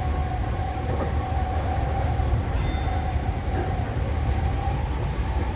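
Tokyu 3020 series electric commuter train running steadily, heard from inside the leading car: a constant low rumble with a steady whine over it.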